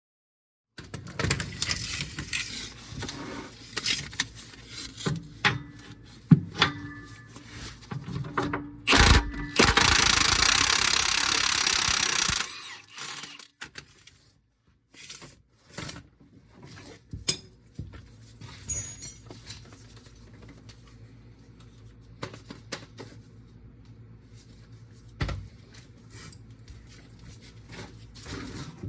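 Hand work on metal parts: scattered clicks, knocks and clinks, with a loud steady rushing noise for about three seconds about a third of the way in.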